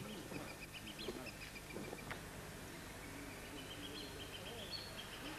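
Birds calling: runs of short, rapid high chirps, one run climbing slowly in pitch through the second half, over lower wavering calls.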